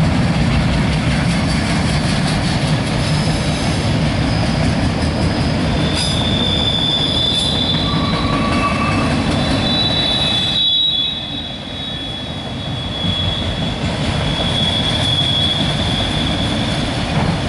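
CSX local freight train rolling past, with a steady heavy rumble of cars on the rails. From about a third of the way in, the wheels squeal in high, thin drawn-out tones that come and go.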